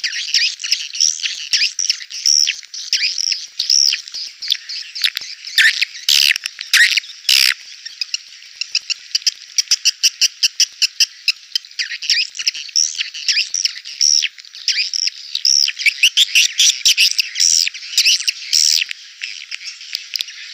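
Edible-nest swiftlets twittering: a dense chorus of rapid high chirps from many birds overlapping, the kind of call track played to draw swiftlets into a nesting house.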